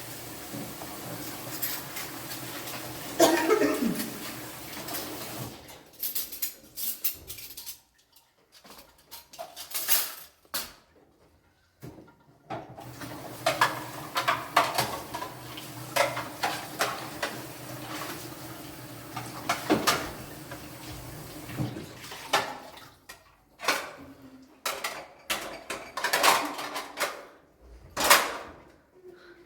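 A series of clinks and knocks from hard objects being handled, irregularly spaced, with a short falling tone about three seconds in and a quiet pause in the middle.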